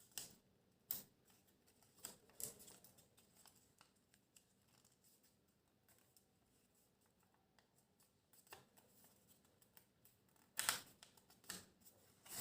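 Faint, sparse rustles and crinkles of a paper sheet being folded and creased by hand, with the loudest crackle about ten and a half seconds in.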